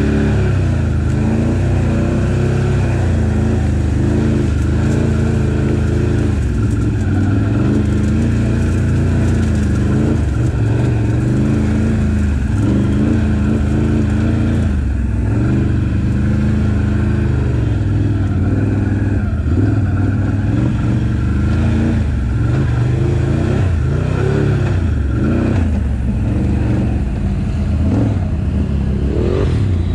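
ATV engine running under load on a rough trail, its revs rising and falling again and again.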